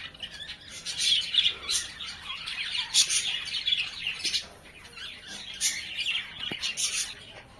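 Small caged pet birds chirping in rapid short notes, several calling at once, growing sparser in the second half.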